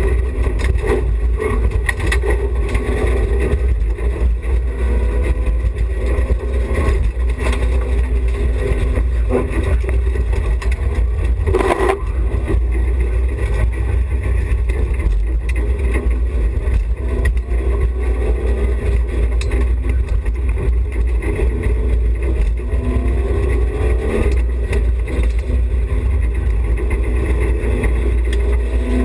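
Interior of a BMW E30 316i rally car at speed: its 1.6-litre four-cylinder engine revs up again and again between gear changes, over a heavy low rumble from road and wind. There is a sharp knock about twelve seconds in.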